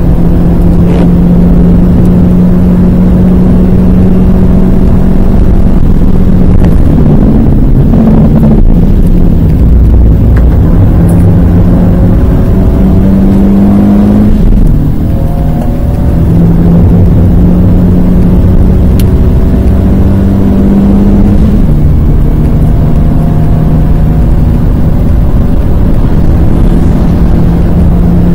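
Renault Twingo 1.2-litre four-cylinder engine, heard loud from inside the cabin, running hard at high revs. Its pitch breaks and drops several times as gears change. Around the middle it eases off for a corner, then it pulls hard again.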